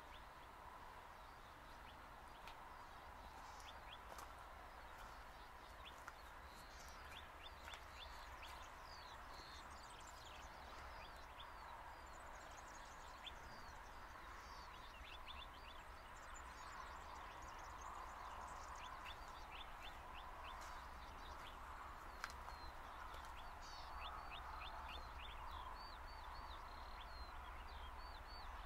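Birds chirping and trilling in quick, short calls, over a faint steady rushing noise that slowly grows louder.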